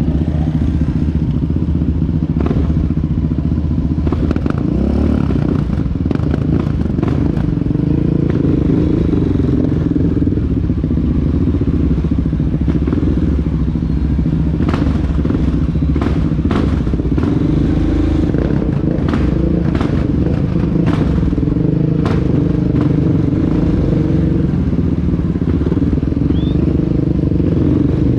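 Honda XR650L dual-sport motorcycle's single-cylinder engine running steadily under way, its pitch shifting a little now and then, with scattered sharp clicks over the top.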